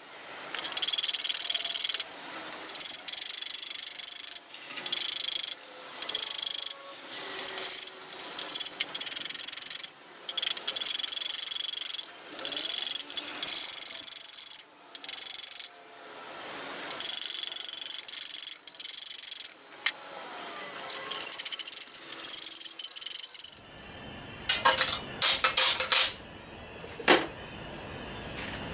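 Metal exhaust tubing being sawn by hand, in uneven rasping strokes about one a second. Near the end there are a few sharp metallic taps.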